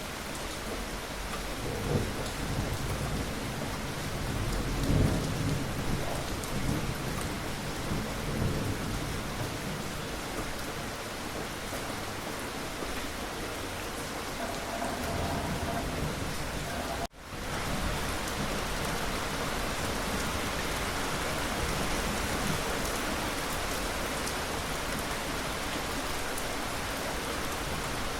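Steady rain with thunder rumbling low during the first third. About two-thirds through the sound cuts out for an instant, then the rain carries on without thunder.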